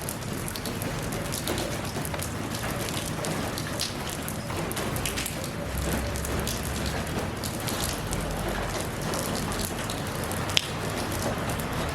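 Steady rain falling, with a constant hiss and many separate drops striking close by. One sharper drop hit stands out near the end.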